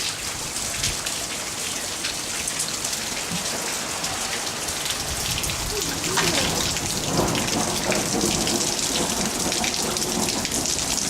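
Heavy rain pouring down steadily, getting a little louder about halfway through.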